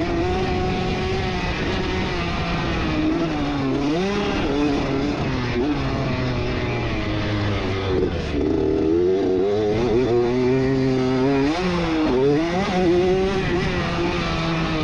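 1989 Honda CR80's two-stroke engine under race throttle, revving up and down, its pitch dropping and climbing again several times as the rider comes off and back on the gas.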